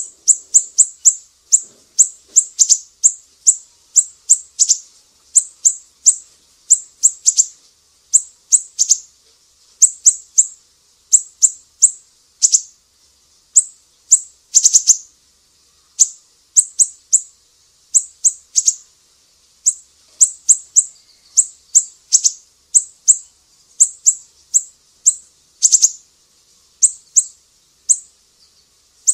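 Songbird chirping from a masteran song-training recording: high, thin, sharp chirps in quick clusters of two to five, repeating over and over with short pauses between clusters.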